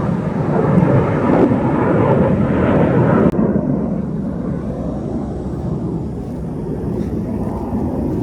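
Loud roar of military jet aircraft flying nearby, typical of Blue Angels practice near the naval air station. The higher hiss drops away suddenly about three seconds in, leaving a lower rumble.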